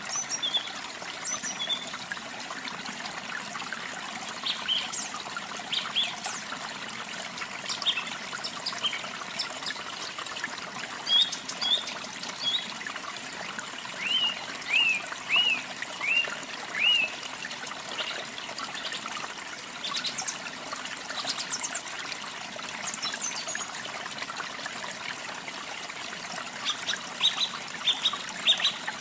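Steady trickle of running water with small birds chirping over it. Short high chirps come scattered throughout, with a run of about five arched notes about halfway through and a quick cluster of chirps near the end.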